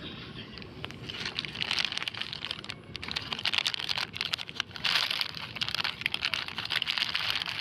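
Plastic crinkling and rustling in irregular, crackly spurts, starting about a second in: plastic litter being handled and stuffed into a bag of collected rubbish.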